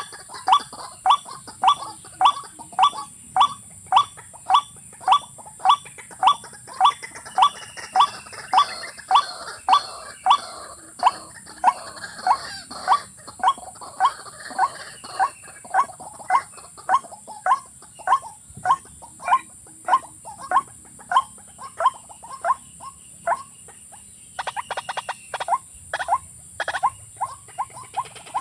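A rail-family waterbird calling over and over, about two short pitched calls a second, with a steady high whine behind it. Near the end the calls break into a quicker rattling run before the steady rhythm resumes.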